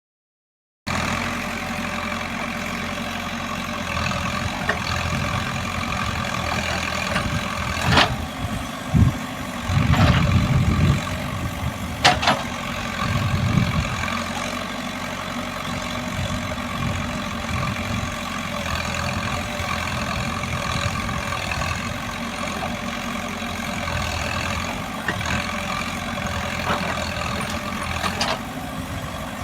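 Caterpillar 424B2 backhoe loader's diesel engine running steadily under work. A run of loud knocks and heavy thuds comes about a third of the way through, the bucket and load striking as a tipper truck is loaded.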